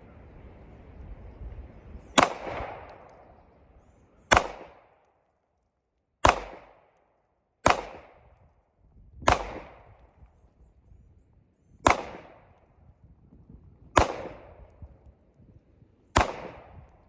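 Springfield Prodigy pistol fired eight times, one shot about every two seconds, each report trailing off in a short echo. Wind rumbles on the microphone before the first shot.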